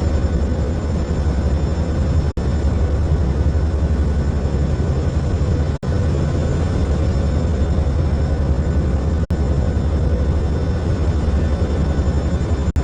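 Steady, loud drone of a hurricane-hunter aircraft's engines in flight. It is broken by very brief dropouts about every three and a half seconds.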